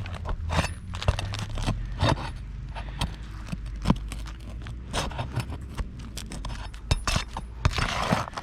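A tool being worked underneath roof shingles, scraping and clicking against them to break the adhesive seal and get at the nails, with a longer scrape near the end.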